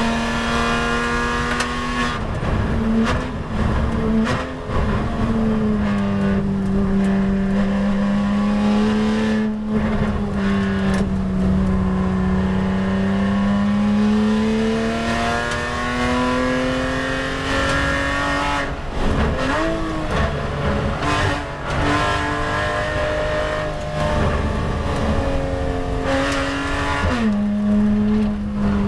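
Porsche 911 GT race car's flat-six engine running hard on track, heard from inside the cockpit over heavy road and tyre rumble. The engine note rises and falls with gear changes and throttle, with a drop about two seconds in, a quick up-and-down shift around two-thirds of the way through and a sudden drop near the end.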